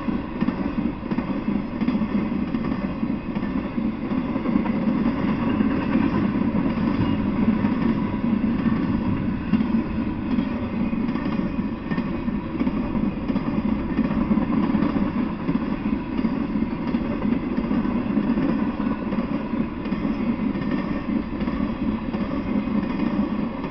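Intermodal freight train of container well cars and trailer flatcars rolling steadily past on the rails: a continuous low rolling noise of wheels on track, with no horn or sudden clank.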